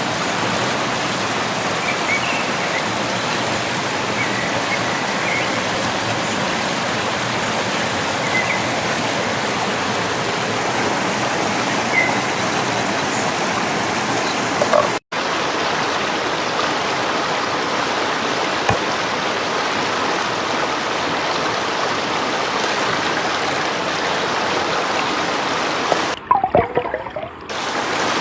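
A stream of running water rushing steadily. The sound cuts out for an instant about halfway through and carries on, then dips and wavers briefly near the end.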